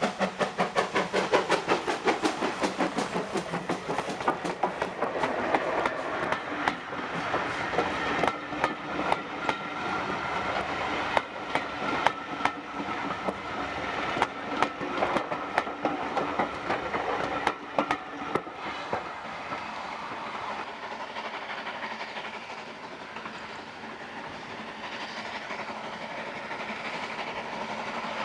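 Steam train passing: regular exhaust beats of the locomotive for the first few seconds, then wheels clicking over rail joints as the carriages go by. The clicking thins out about two-thirds of the way through, leaving a quieter rolling rumble.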